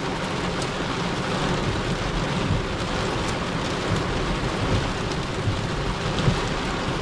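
Heavy rain falling steadily on the roof and windows of a parked car with its engine off, heard from inside the cabin.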